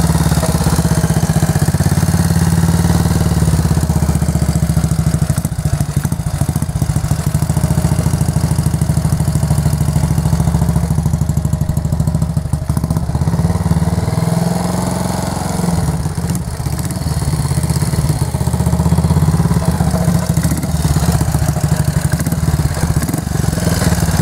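Motorcycle engine running steadily while the bike is ridden, heard from on board over a rush of wind. Its note drops and climbs again about halfway through.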